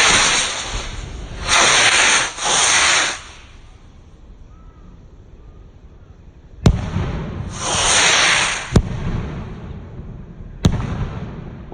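Eagle Fireworks 'Eye Of The Eagle' firework cake firing: four shots going up with a rushing hiss, and three sharp bangs of bursting shells, each echoing away, the last near the end.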